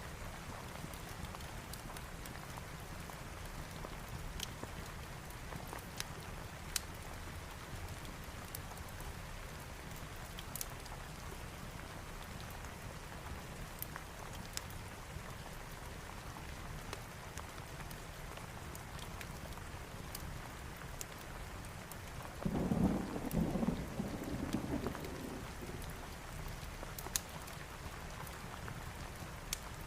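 Steady rain with scattered sharp ticks, and a rumble of thunder about three quarters of the way through, lasting about three seconds and the loudest thing here.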